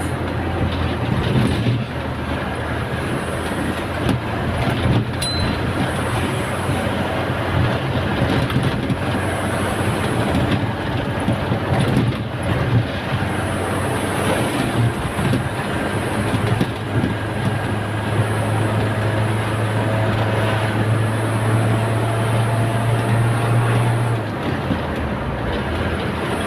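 Truck engine running under way with road and wind noise, a steady low drone that drops away about two seconds before the end.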